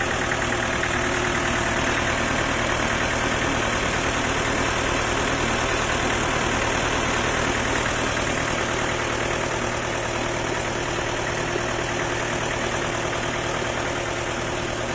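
Diesel engine of a 4x4 running steadily, used as a generator.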